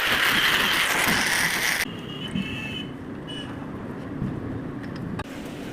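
A loud, steady hiss that cuts off suddenly about two seconds in, leaving a quieter low rumble.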